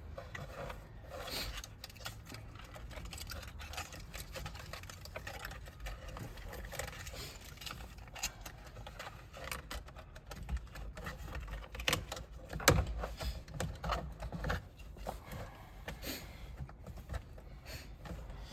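Irregular clicks, taps and knocks from hands working on the plastic console and trim inside a truck cab, over a steady low hum. The sharpest knocks come about two-thirds of the way through.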